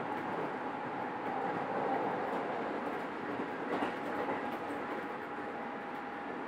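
Running sound of a Keisei 3700 series electric train: a steady rumble of wheels on rail under a steady motor tone, with a faint knock about four seconds in.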